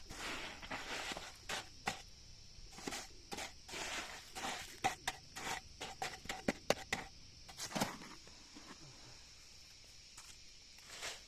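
A run of short, irregular scraping strokes that thin out about eight seconds in, with one more stroke near the end, over a steady high hiss.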